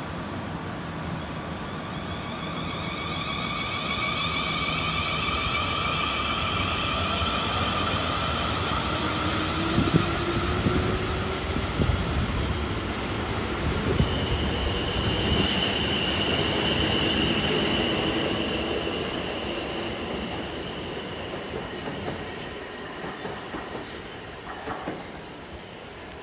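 Two coupled Class 450 Siemens Desiro electric multiple units pulling away: the traction motors whine in several tones that rise slowly in pitch, then settle into a steady high tone. Wheels click over rail joints a few times, and the sound fades as the train moves off.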